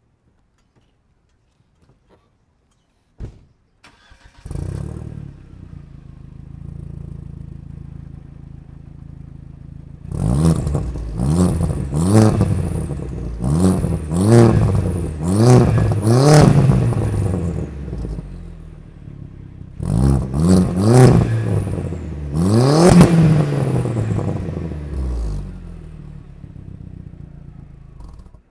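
2000 Audi A4 1.8T turbocharged four-cylinder with a straight-pipe exhaust and Thrush glass pack, starting about four seconds in and idling. It is then revved in a run of quick blips, each rising and falling, about one every second and a half. A second set of revs follows a short break, the last one the loudest, before the engine settles and dies away near the end.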